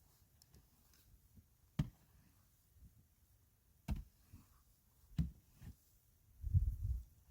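Three faint, sharp clicks or knocks, one every second or two, then a short low rumble near the end.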